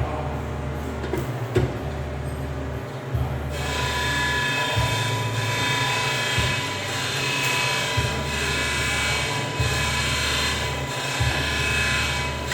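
High-speed power tool running with a steady high-pitched whine, which gets louder and more tonal about three and a half seconds in, over a low hum that cuts in and out every second or two.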